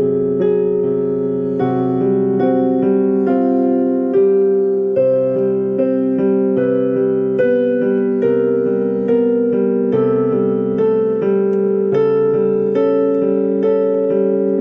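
Solo piano playing a slow, gentle melody over chords, notes struck at an even, unhurried pace.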